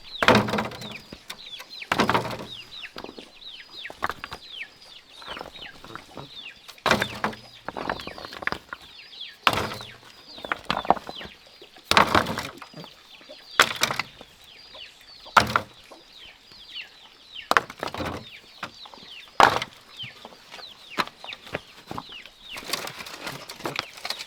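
Sharp knocks every one to three seconds, about ten in all, over continuous high, short, falling chirps from small birds or chicks.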